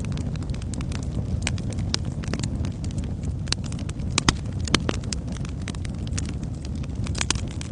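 Wood fire crackling: a steady low rumble of burning logs with irregular sharp pops and snaps, the loudest a little past the middle and a cluster near the end.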